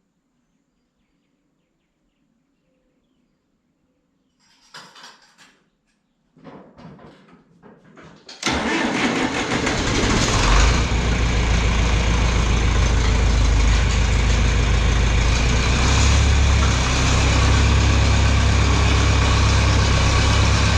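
Near silence with a few faint knocks, then about eight and a half seconds in a John Deere 3020 tractor engine starts and runs steadily and loudly.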